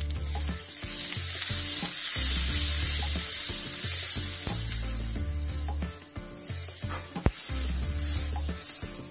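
Onion and garlic paste sizzling in hot oil in a steel kadhai while a metal spatula stirs and scrapes it around the pan. The sizzling dips briefly about six seconds in.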